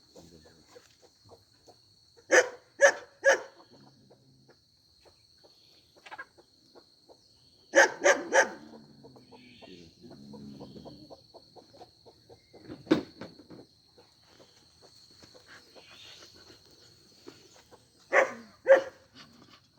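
A dog barking in short bursts: three quick barks, then three more, a single bark, and two near the end.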